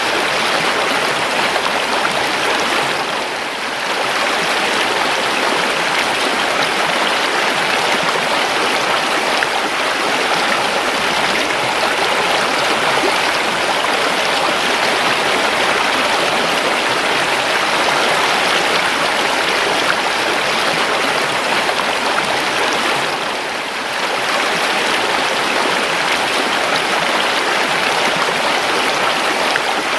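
A river running steadily over stones: an even, unbroken rush of flowing water that briefly dips in loudness twice, about three seconds in and again near the end.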